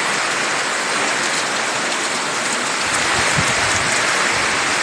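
Heavy rain pouring down steadily in a dense, even hiss. A low rumble joins about three seconds in.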